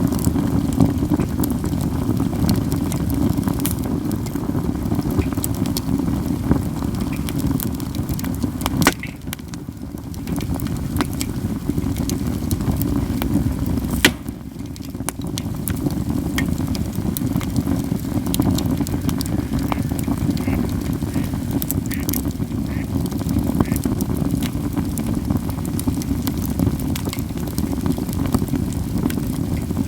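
Katsura wood burning in a campfire: steady crackling with many small snaps over a low rush, and two sharp, loud pops, about nine and fourteen seconds in.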